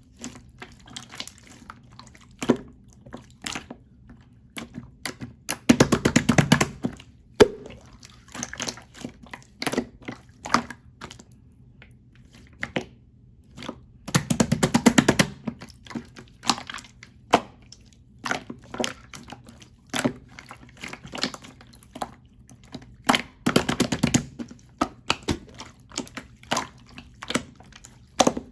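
Clear slime being squished and poked by hand: scattered wet clicks and small pops, with three stretches of rapid crackling as trapped air bubbles are pressed out.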